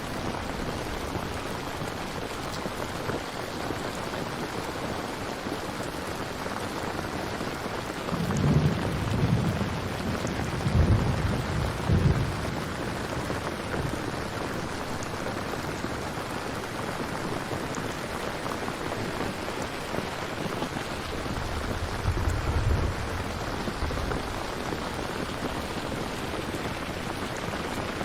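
Steady rain during a thunderstorm, with two low rolls of thunder: one starting about eight seconds in and rumbling for several seconds, another around twenty-two seconds in.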